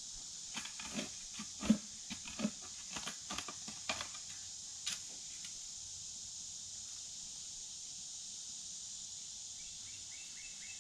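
Hands scooping loose soil out of the bottom of a post hole: a run of short scrapes and rustles over the first five seconds, the sharpest about two seconds in. A steady high-pitched hiss of insects runs underneath.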